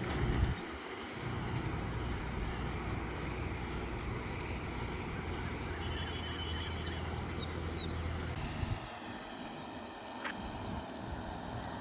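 Low, steady rumble of a passing vehicle that fades out near the end, over a constant outdoor hiss. A faint, short series of high bird notes comes through about six seconds in.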